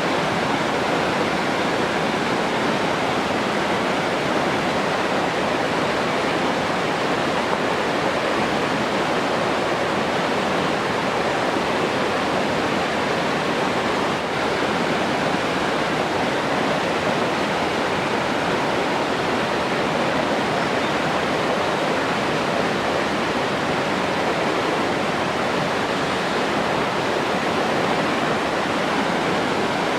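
Rushing water, a steady, even rush with no breaks or changes in level.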